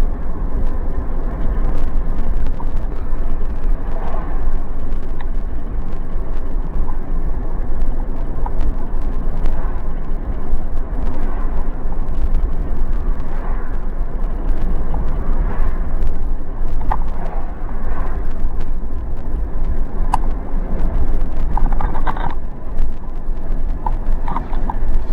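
Road noise from a moving vehicle: a steady low rumble with occasional small rattles and clicks.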